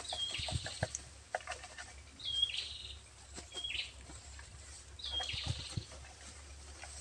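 A bird calling four times, each call a short high note followed by a buzzy rasp. Between the calls come a few short knocks and rustles from a bamboo pole with a cloth net bag being worked among tree branches.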